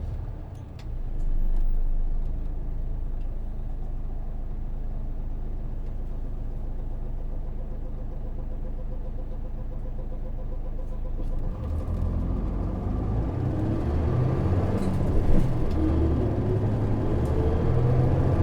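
Hino PJ-KV234L1 city bus with its 6HK1 six-cylinder diesel, heard from inside the cabin. It runs steadily and fairly quietly for about eleven seconds. Then it pulls harder, with engine and drivetrain pitch rising twice as it accelerates through the gears.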